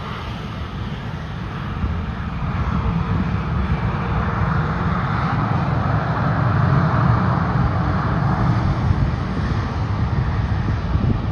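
Airliner engines passing close by, a loud roar that swells over several seconds, peaks about two-thirds of the way through, then cuts off suddenly.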